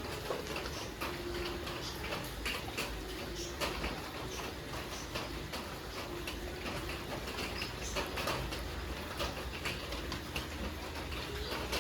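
Desi chicken pieces cooking in a pan of masala, with irregular crackling and popping. A low tone comes and goes several times through it.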